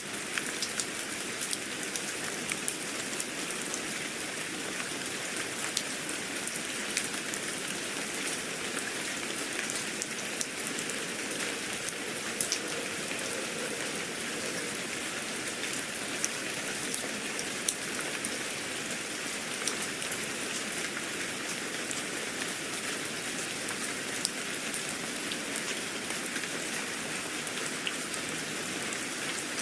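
Steady rain falling on a surface, a constant hiss with many small scattered drop ticks.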